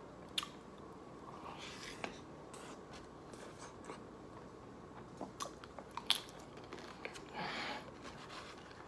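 Close-up chewing of a forkful of wet burrito with a tortilla chip and sour cream, with some crunching. A few sharp clicks of a metal knife and fork against the foam takeout container come in a cluster about five to six seconds in.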